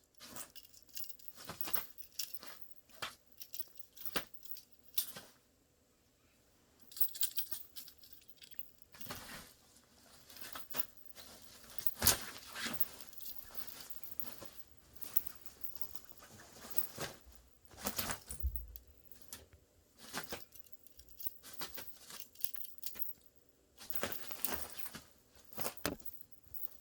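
Irregular scratching, rustling and light clicking sounds from a pet cat at play, in a small room.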